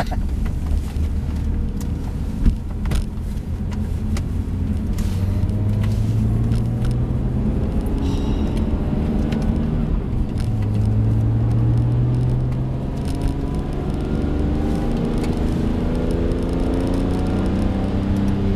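BMW E46 M3's straight-six engine heard from inside the cabin, pulling hard with its pitch climbing over several seconds, dipping once about thirteen seconds in, then climbing again, over steady road rumble. There are a few scattered clicks.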